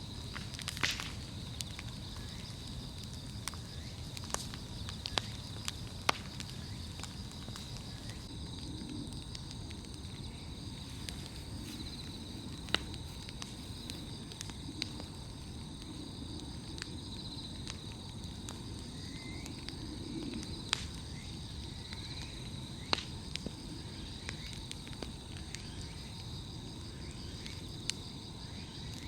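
Wood bonfire crackling, with sharp pops of burning logs every second or two. Behind it, insects trill steadily at a high pitch.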